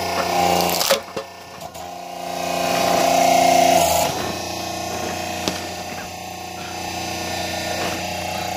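Electric hydraulic log splitter (380 V) running with a steady hum while splitting a thick, heavy log. A short sharp sound comes about a second in, then the pump strains louder for about two seconds under load and drops back suddenly.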